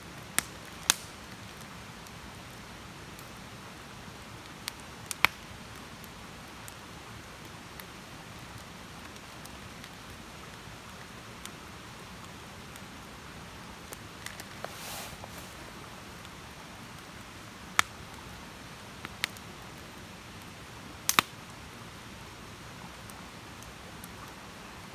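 Wood campfire crackling: a soft steady hiss with occasional sharp, separate pops.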